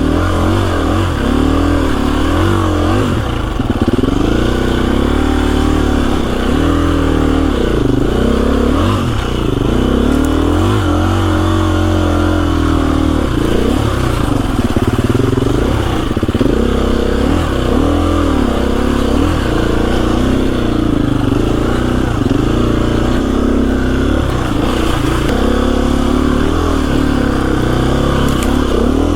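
KTM 350 EXC-F dirt bike's single-cylinder four-stroke engine, revving up and down over and over as the bike is ridden along a trail.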